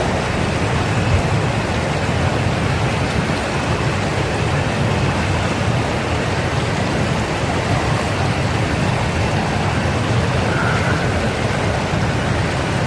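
River rapids rushing: a steady, unbroken roar of fast water over rocks.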